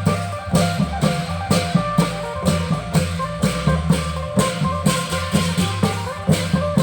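Thai klong yao long-drum ensemble playing: deep drum strokes and cymbals on a steady beat about twice a second, with a held melody line over it.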